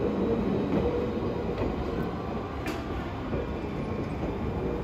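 JNR 205 series electric train moving slowly through a depot yard: a steady rolling noise from its wheels and running gear, with one light click near the middle.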